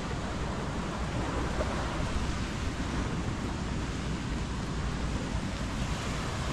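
Surf washing on a beach, a steady rushing noise, with wind buffeting the microphone.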